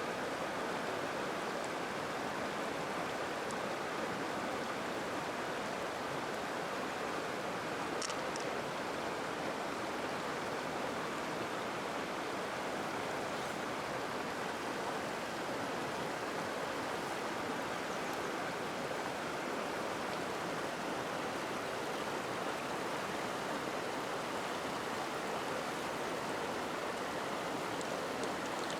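Steady rushing of flowing stream water, with a few faint clicks, the clearest about eight seconds in.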